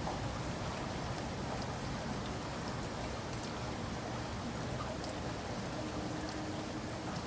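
Steady heavy rain falling, an even hiss with scattered drop patter.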